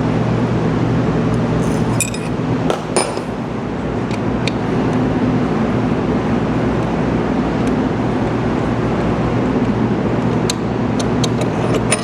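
Steady low machine hum in the background, with light metal clinks about two to three seconds in and several more near the end, from a number 6 Allen key and steel socket cap bolts being worked out of the pump housing.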